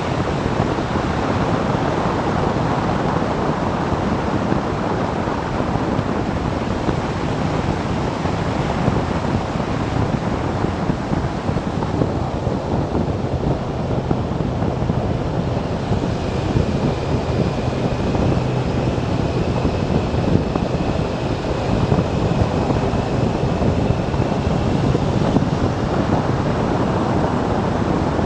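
Wind rushing over the microphone of a moving motorcycle, a loud, steady rush throughout. About halfway through, a faint high, steady whine joins it.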